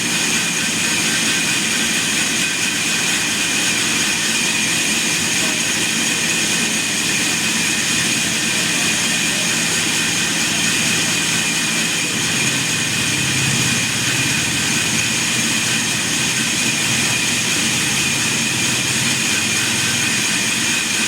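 Sawmill machinery running steadily: a continuous mechanical drone with several steady high-pitched whines over it.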